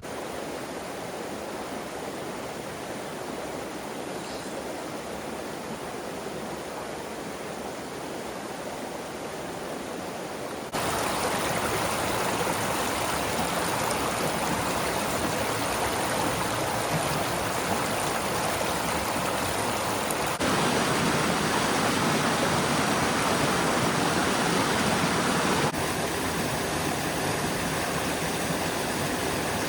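Rushing water of a rain-swollen creek and its waterfalls, a steady rush that changes abruptly in loudness three times.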